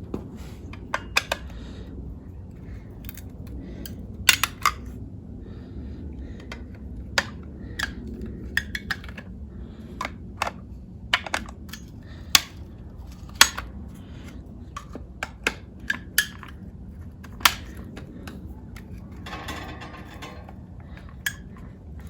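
Irregular sharp metallic clicks and clinks of hand work on a Pontiac V8's distributor as its cap is worked loose and removed, with a short scraping rub near the end.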